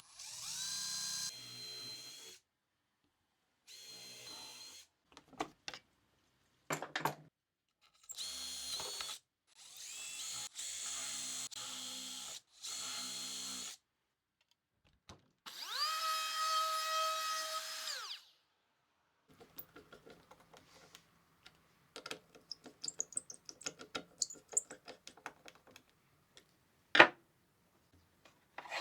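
Power drill run in five short bursts, each spinning up to a steady whine and winding back down. Afterwards there is light clicking and tapping, with one sharp knock near the end.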